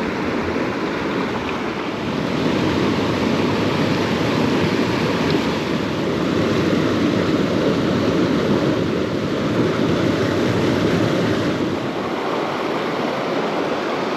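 Small mountain creek rushing steadily, a little louder through most of the middle stretch.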